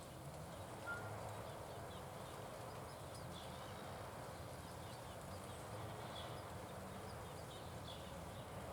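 Faint, scattered chirps of small birds over a steady outdoor background hiss, with one short higher note about a second in.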